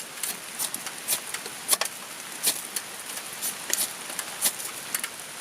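Rain falling on a camp tarp: a steady hiss with irregular sharp ticks of drops hitting it.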